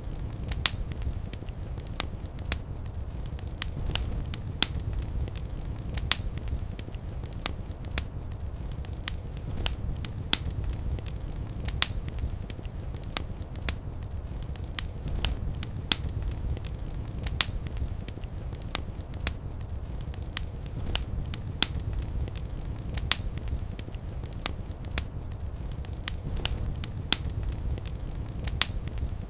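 Wood fire crackling and popping in a fireplace: sharp, irregular pops over a steady low rumble of the flames.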